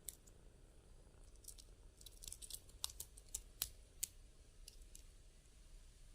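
Faint, scattered light clicks and ticks, about a dozen over several seconds, against near silence.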